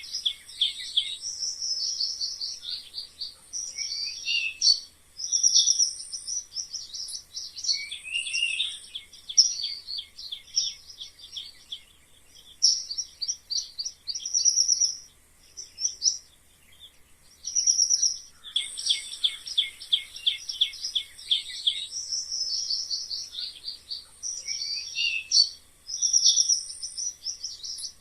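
Mice squeaking in rapid, high-pitched runs, some squeaks sliding down in pitch, with brief lulls about twelve and sixteen seconds in.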